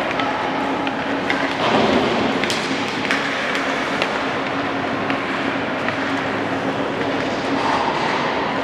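Hockey rink ambience during play: a steady din under a constant low hum, with scattered sharp clicks and knocks of sticks and puck on the ice, and a louder swell about two seconds in.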